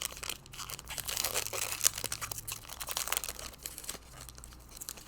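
Plastic trading-card pack wrapper crinkling as it is handled and torn open, a dense run of crackles that eases off after about four seconds.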